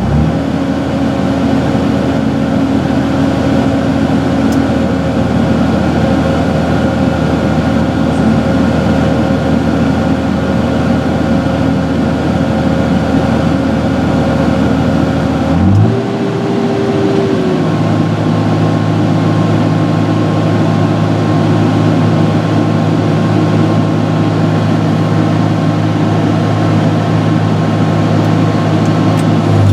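John Deere 6068 inline six-cylinder diesel in a Fabtek 153 harvester running steadily after a thermostat replacement, being checked for overheating. About halfway through its note changes, with a brief rise in pitch, then it holds a new steady speed.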